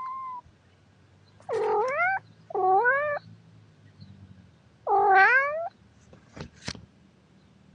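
Domestic cat meowing: three drawn-out meows, each dipping and then rising in pitch, after the tail end of another one at the very start. Two short clicks follow near the end.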